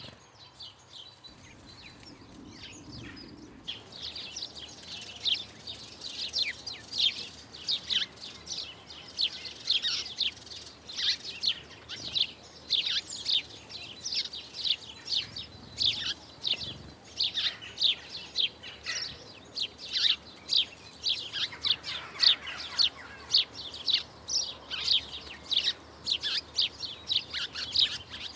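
Small birds chirping busily, many short falling chirps a second; the chirping starts up about four seconds in and carries on.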